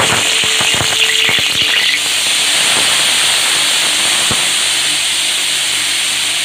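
Hand-squeezed shredded banana stem dropped into hot mustard oil in a kadai, sizzling loudly. It starts suddenly, crackling for the first couple of seconds, then settles into a steady hiss.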